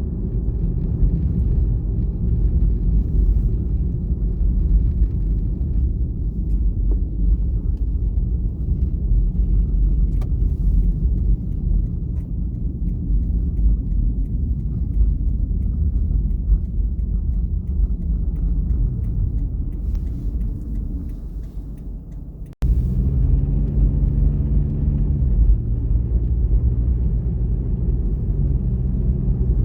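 A car driving, with a steady low rumble of engine and road noise. About 22 seconds in the sound fades and cuts out for an instant. It then resumes with a clearer engine hum whose pitch steps up and down.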